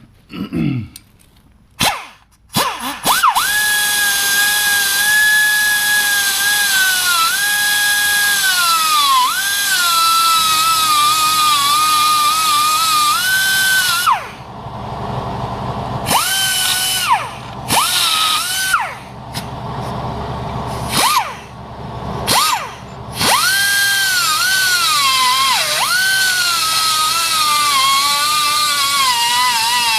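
Die grinder spinning at high speed with a high whine, its pitch sagging as it bites into the metal and rising again as it is eased off. It starts with a few short blips, runs steadily, stops about 14 seconds in, gives several short bursts, then runs steadily again.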